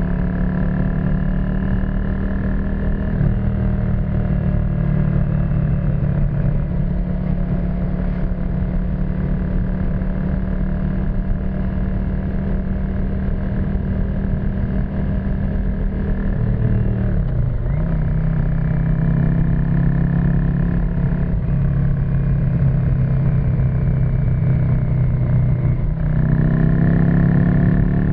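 1991 Yamaha XV535 Virago's V-twin running through a custom exhaust while riding, heard from on the bike: a steady cruise, a gear change a little past the middle where the pitch drops and picks up again, and revs rising near the end.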